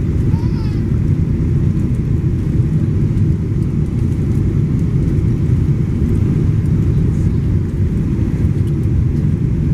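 Steady low rumble of a passenger plane's engines and rushing air, holding an even level without rising or falling.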